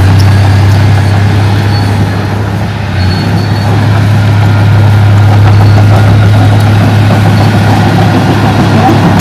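Heavy diesel engine of earthmoving machinery running loud and steady with a deep drone, easing off briefly about two seconds in and then picking back up.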